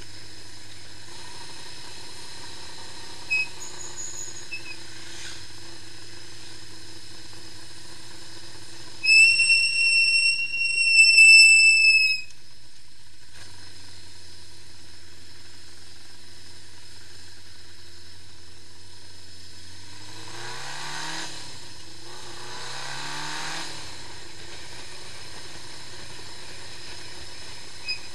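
Honda CB550 Four's inline four-cylinder engine idling steadily, then revved twice in the last third with the pitch rising and falling each time. Partway through, a loud high whistling tone sounds for about three seconds.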